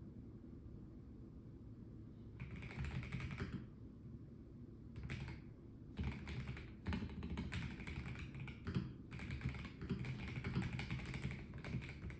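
Typing on a Melgeek Mojo84 plastic-case mechanical keyboard: a couple of short bursts of keystrokes, then a longer run of quick, steady typing with brief pauses from about halfway through.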